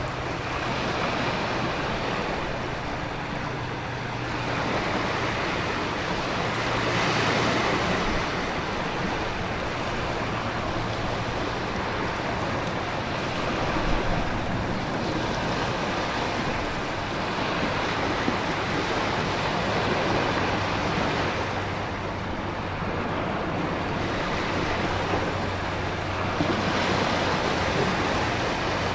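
Storm ambience: a continuous rush of wind and heavy rain, with ocean surf swelling and breaking a few times over the stretch.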